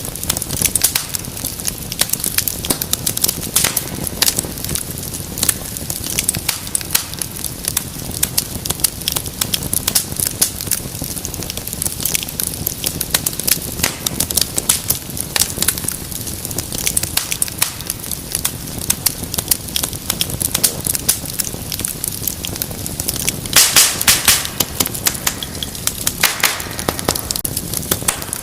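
Wood fire crackling steadily with dense small snaps, and a louder cluster of sharp pops about three-quarters of the way through.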